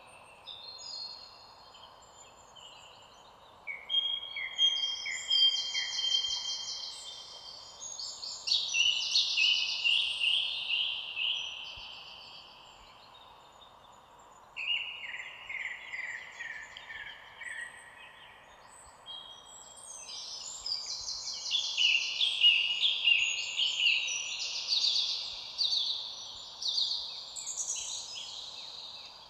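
Songbirds singing, several overlapping birds with rapid repeated notes and short descending trills, coming in bouts with brief lulls around 2 s and again around 13 s.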